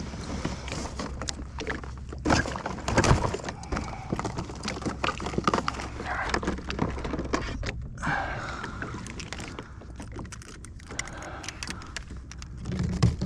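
Handling noises on a fishing kayak: scattered knocks, clicks and rattles of gear and the catch being handled, with a couple of louder knocks about two and three seconds in.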